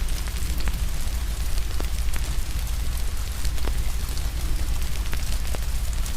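Steady rain with a low rumble underneath, and a wood fire crackling, with scattered sharp pops about once or twice a second.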